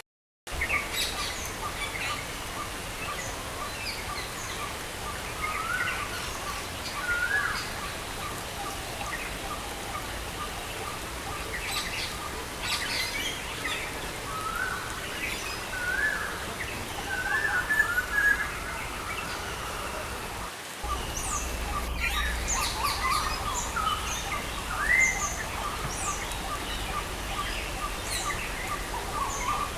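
Several birds chirping and calling with short rising notes over the steady hiss of falling rain. A regular run of short repeated notes ticks along beneath them. About two-thirds of the way in, the background briefly drops out and comes back slightly louder and deeper.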